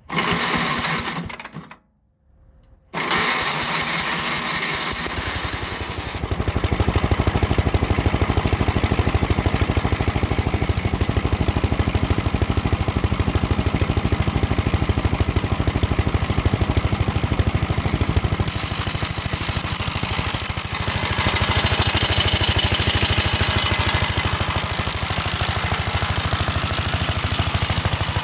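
1968 Gravely C8 tractor's engine being started on choke: the electric starter cranks briefly, stops for about a second, cranks again, and the engine catches about six seconds in and settles into steady running with a fast, even firing beat. About two-thirds of the way through its note grows brighter and somewhat louder.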